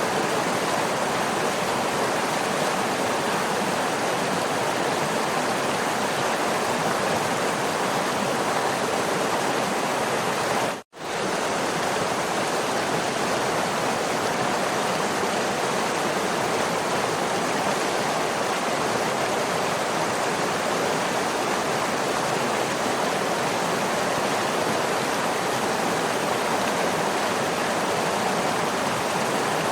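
Waterfall rushing steadily. About eleven seconds in it cuts out completely for a split second, then resumes.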